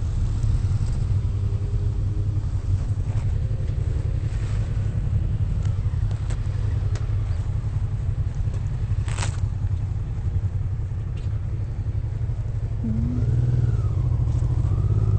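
Motorcycle engines running at low revs: a steady low rumble. A single short sharp click about nine seconds in.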